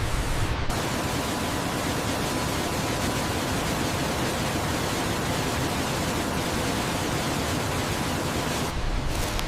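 Steady rushing of a waterfall, an even hiss with no separate events. It starts abruptly just under a second in and gives way shortly before the end.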